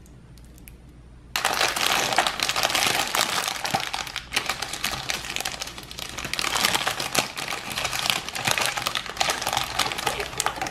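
Thin clear plastic bag crinkling and crackling as hands open it and work the hard green plastic toy parts inside, with many small clicks. It starts suddenly about a second in.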